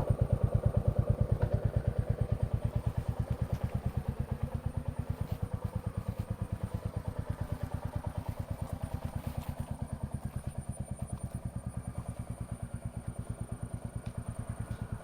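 Royal Enfield Classic 350's single-cylinder four-stroke engine idling: an even, steady thump-thump exhaust beat that does not change pitch and slowly gets a little quieter.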